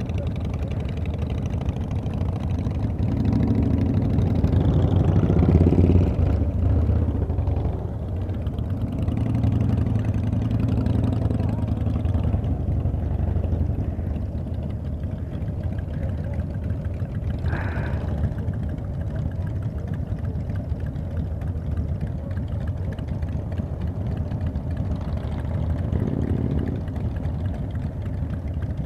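Harley-Davidson Dyna Super Glide Custom's V-twin engine running at low speed, rising twice in the first dozen seconds, then idling steadily.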